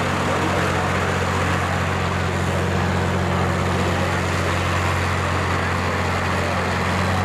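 Farm tractor engine running steadily at a constant pitch, with no revving up or down.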